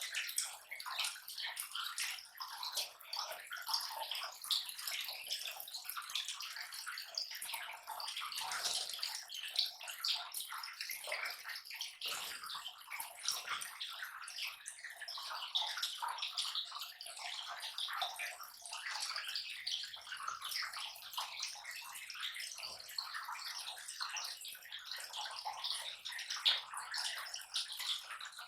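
Lovebirds shredding palm leaves: a continuous, irregular dry crackling and rustling of many small tears and bites.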